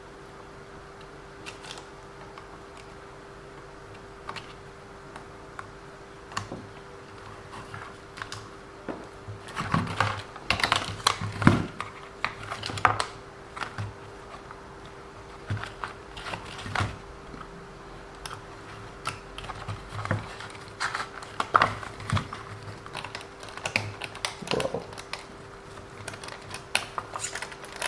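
Irregular clicks, taps and knocks of small hard parts and tools being handled while working on an RC car, louder and busier from about ten seconds in, over a faint steady hum.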